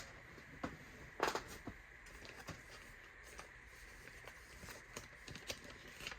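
Faint handling sounds of a vinyl record and its paper sleeve: scattered soft rustles and light taps, the loudest a little over a second in.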